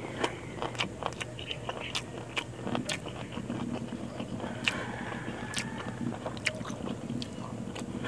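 Close-up chewing and lip-smacking of a mouthful of rice and fish eaten by hand, a run of short wet clicks, with fingers working through rice on a banana leaf. A faint steady low hum comes in about three seconds in.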